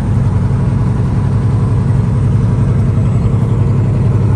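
Truck engine running with a steady, unbroken low drone.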